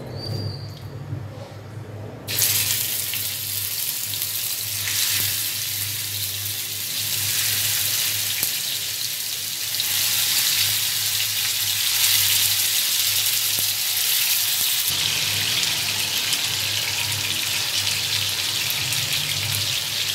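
Marinated chicken pieces frying in hot oil in a grill pan, sizzling. The sizzle starts suddenly about two seconds in as the first pieces go into the oil, and grows louder as more pieces are added.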